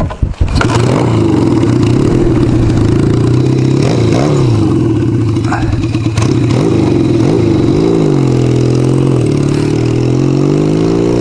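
1975 Kawasaki KZ400S parallel-twin engine running under way, its revs rising and dropping several times as the gears change. In the first half second there is a short, choppy clatter.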